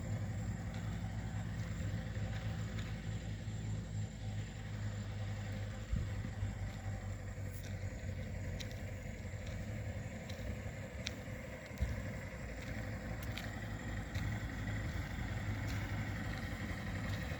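An engine running steadily at idle, a constant low hum, with a few faint clicks over it.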